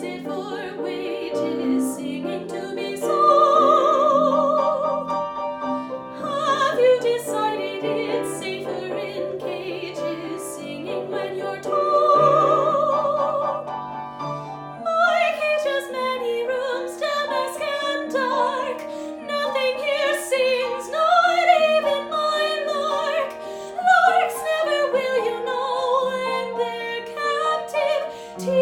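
A female soprano singing in classical style over instrumental accompaniment. Two long notes are held with vibrato in the first half, then the melody moves in quicker, running phrases from about halfway through.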